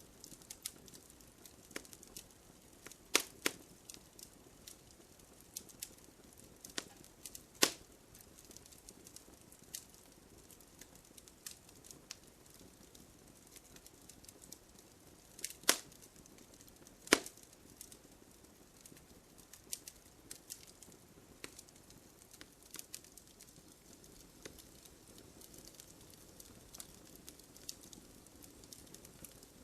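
Wood fire crackling: a faint hiss full of small, irregular ticks and snaps, with a few loud sharp pops from the burning wood, two close together about three seconds in and others around eight, sixteen and seventeen seconds.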